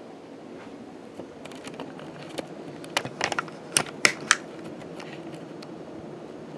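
1979 Casablanca K63 ceiling fan running with a steady motor hum and air whoosh. A quick irregular run of sharp clicks and ticks is heard about a second in, strongest around the three-to-four-second mark.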